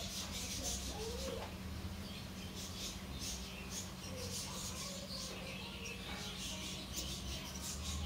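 Small birds chirping: short, high-pitched squeaky calls repeating irregularly, over a steady low hum.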